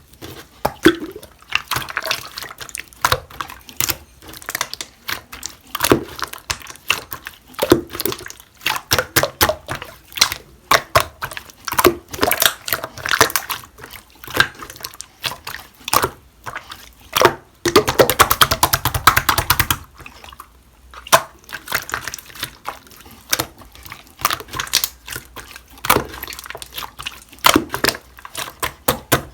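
Hands squishing, poking and stretching a chewy white milky slime with liquid mixed in, making rapid wet clicks, pops and crackles. The crackling comes thickest in two long runs, about halfway through and again a few seconds later.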